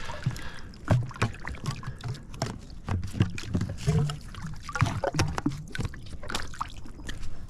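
Water sloshing and splashing with a string of hollow plastic knocks and clicks, as a pool's in-line leaf canister is handled and closed up.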